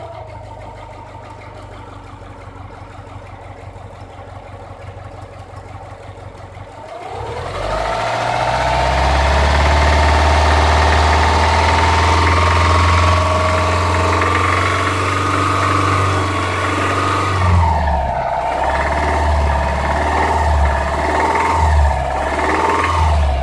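Subaru EJ253 2.5-litre flat-four engine idling, then revved up about seven seconds in and held at higher revs for around ten seconds, then blipped several times. The engine has a knock, which is the fault on show.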